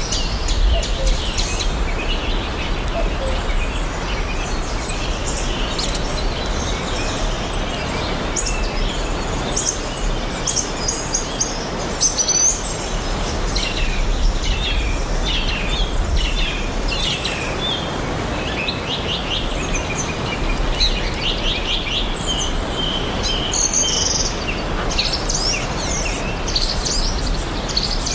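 Many songbirds chirping and trilling, overlapping and continual, over a steady even rushing background with a low rumble.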